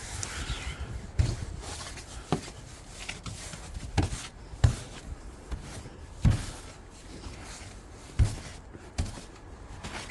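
Snow being cleared off a car by hand: irregular thuds and crunches, about seven of them, over a steady hiss.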